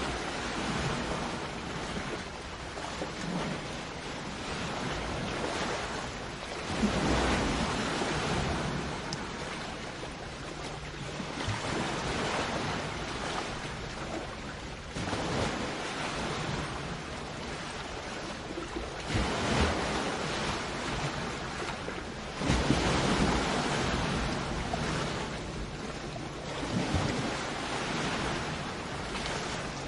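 Sea waves breaking and washing onto the shore, each wave surging louder every few seconds over a steady wash of surf.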